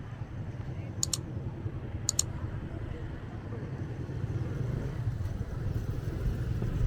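Motorbike engine running with steady low road rumble, and a few sharp double clicks about one and two seconds in.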